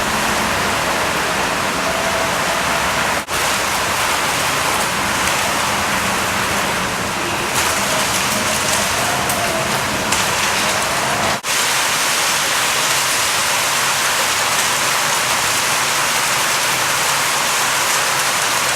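Heavy rain pouring down in a thunderstorm, a steady dense hiss of falling water. The sound cuts out for an instant twice, about three seconds in and again around eleven seconds.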